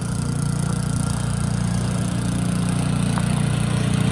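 Gasoline snow blower engine running steadily with a low, even drone.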